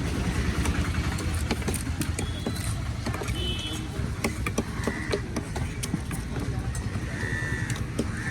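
Busy market din: a steady low rumble with faint background voices, scattered sharp knocks and clicks, and a few short high-pitched tones around the middle and near the end.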